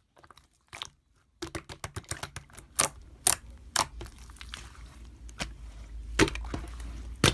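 Slime being squeezed and poked by hand, giving irregular sharp clicks and pops, with a low rumble underneath from about four seconds in.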